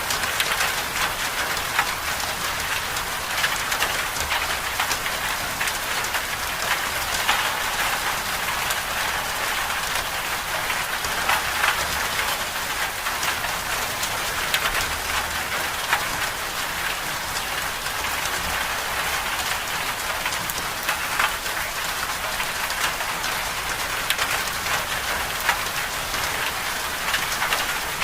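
Steady storm ambience of rain pattering on a surface: a continuous hiss made of many fine, close-packed drop ticks, with no pauses or swells.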